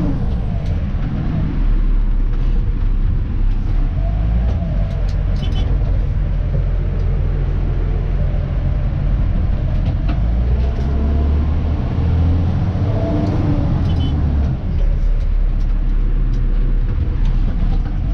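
Cab sound of a Dennis Elite 2 refuse truck: a steady low diesel engine rumble with road noise, swelling for a few seconds in the second half, and scattered short clicks and rattles.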